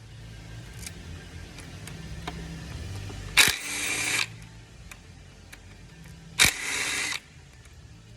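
A power tool, most likely a cordless driver or ratchet working on the W12 engine's plenum fasteners, run in two short bursts of under a second each, about three seconds apart, each starting with a sharp click. A low steady workshop hum lies underneath.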